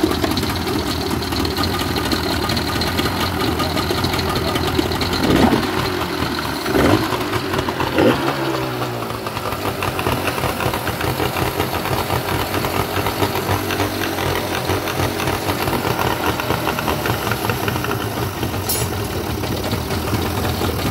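An engine idling steadily, blipped three times in quick succession about five to eight seconds in, each a short rise and fall in pitch, then settling back to idle.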